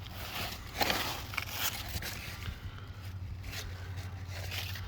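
Irregular rustling and scraping of large, coarse zucchini leaves and stems being handled, in several short crackly bursts.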